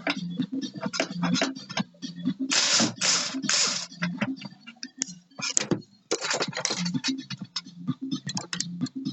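Hand tools and metal parts clicking and clattering irregularly while a jet-ski engine is taken apart, with three short hissing bursts about two and a half seconds in and another noisy stretch near the middle, over a low steady hum.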